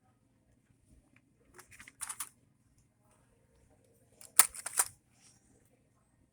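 Handling noises: brief rustling about two seconds in, then a sharp click about four and a half seconds in with a smaller one just after, over a low steady hum.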